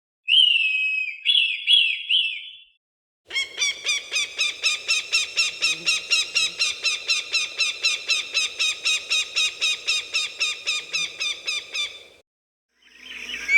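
Recorded hawk calls: a brief call of a few sharp, falling notes, then after a short pause a long rapid series of the same sharp note repeated about four times a second for nearly nine seconds.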